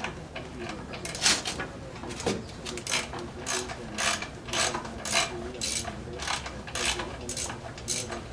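Hand socket ratchet clicking through repeated short strokes, about two a second, while working a bolt.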